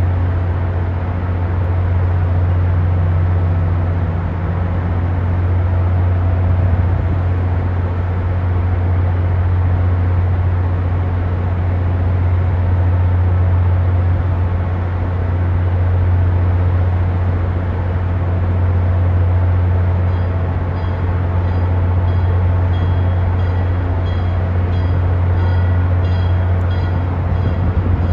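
MBTA commuter rail train rolling slowly into the station, with a steady low rumble throughout. A faint high ringing repeats about once a second in the last third.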